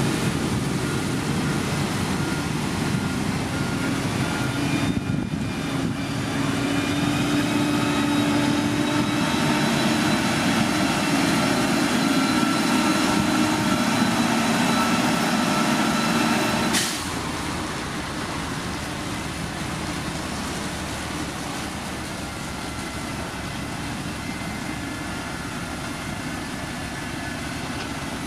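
Heavy diesel construction machinery running, with a steady whine over the engine noise. About seventeen seconds in, the whine stops abruptly and the sound drops to a quieter, steady engine hum.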